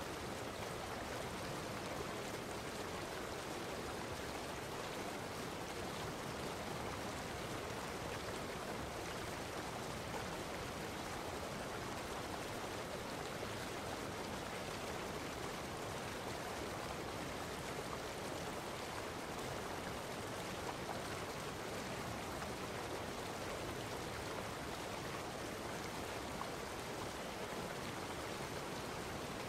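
Steady, unchanging rushing noise with no distinct events, like running water.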